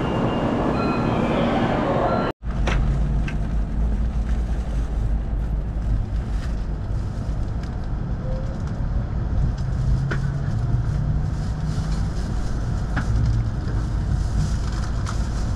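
Inside a Shinkansen bullet train pulling out of the station: a steady low rumble with a faint hum and a few light clicks. Before that, about two seconds of platform sound with short chiming tones ends in an abrupt cut.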